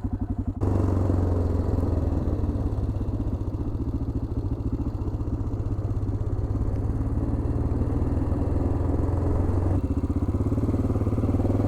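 Single-cylinder engine of a 1987 Yamaha XT600Z Ténéré motorcycle running on the move, with an even low thump at first and getting louder about half a second in, then holding steady.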